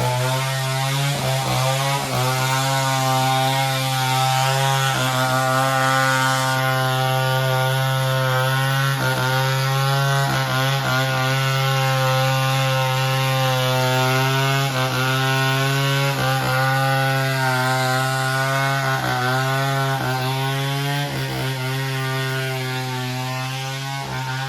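Chainsaw engine running at high revs while cutting wood, its pitch dipping briefly again and again as the chain bites into the log.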